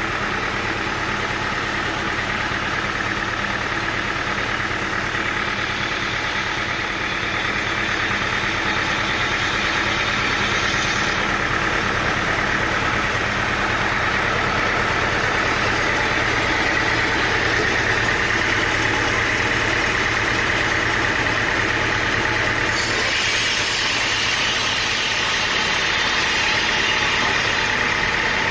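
Sawmill's engine running steadily, with a hiss above it that grows louder about two-thirds of the way through.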